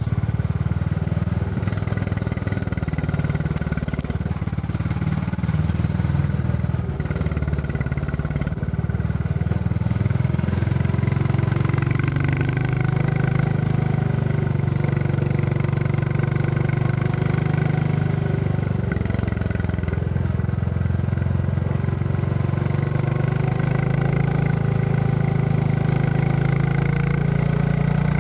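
Royal Enfield Classic 350's single-cylinder engine running steadily while riding, its thumping note rising and falling a little with throttle and road speed.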